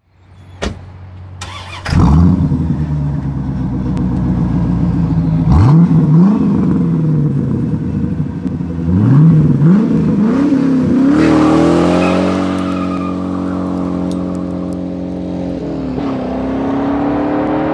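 C4 Corvette V8 starting up about two seconds in, idling with several sharp revs, then accelerating hard away with the pitch climbing and one gear change near the end.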